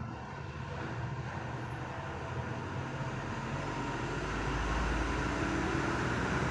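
Steady low rumble and hum of background noise, growing louder from about four seconds in.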